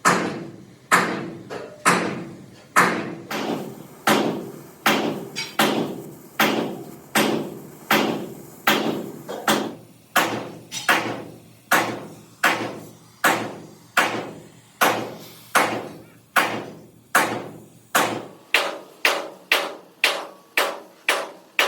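Hammer blows on a steel rim plate, struck again and again at an even pace with a metallic ring dying away after each blow; the blows come faster near the end.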